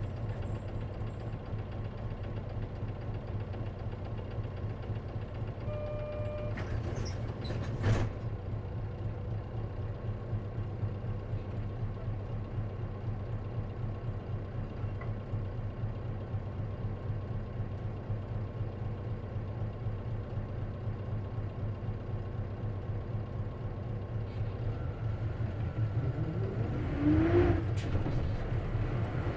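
Isuzu KC-LV380N city bus's diesel engine running steadily, heard from inside the cabin as a low drone. There is a single knock about eight seconds in. Near the end the engine revs up with a rising whine as the bus accelerates.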